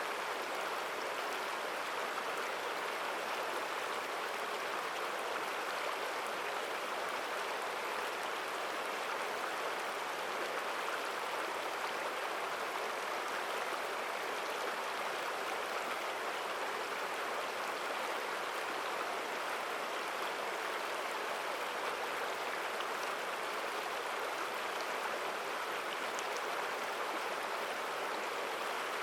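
Mountain stream flowing strongly and steadily, a constant rush of water with no breaks.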